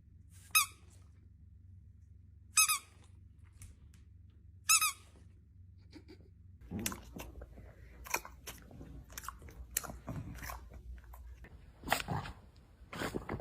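Three short, high squeaks about two seconds apart, followed from about halfway through by irregular crunching and chewing.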